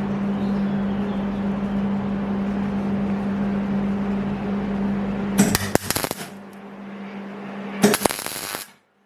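A machine running with a steady hum, then two short bursts of sharp, rattling clatter about five and a half and eight seconds in; the hum drops away after the first burst, and the sound cuts off abruptly near the end.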